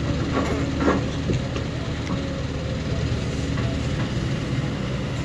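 Heavy diesel engine running steadily, with a few short knocks and clatters between about half a second and a second and a half in.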